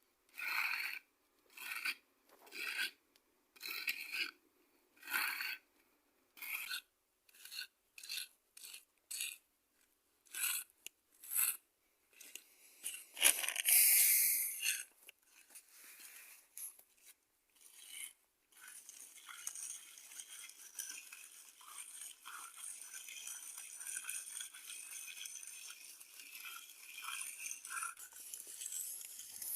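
Rhythmic scraping strokes on a hard, gritty surface, about one every 0.7 seconds, then one longer, louder scrape. After that comes a steady, faint crackling scrape with small ticks.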